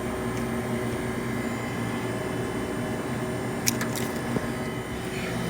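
Steady mechanical hum of running machinery, with a couple of short sharp clicks about three and a half to four and a half seconds in.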